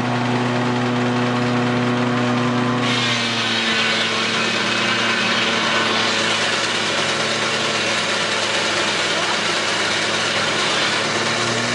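Steam-engine-driven sawmill machinery running steadily: a constant hum with a hiss over it. About three seconds in, the hiss changes and the hum drops slightly in pitch.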